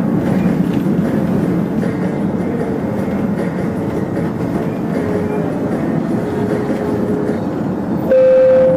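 Manila LRT Line 1 train running, heard from the driver's cab: a steady rumble of the moving train. About eight seconds in, a loud, steady horn note starts.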